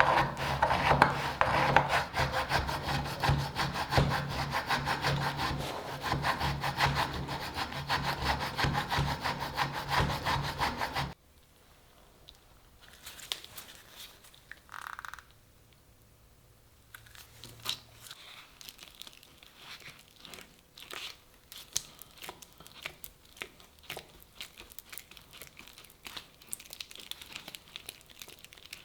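Wood being sawn in fast, steady strokes that stop abruptly about eleven seconds in, followed by faint scattered clicks and taps of work handling.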